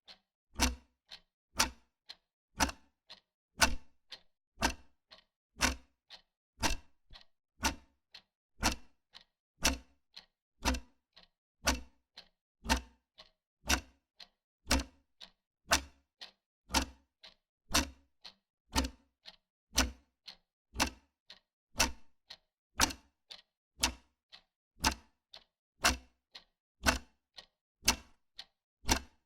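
Wall clock ticking steadily, about one tick a second, with fainter clicks between the main ticks.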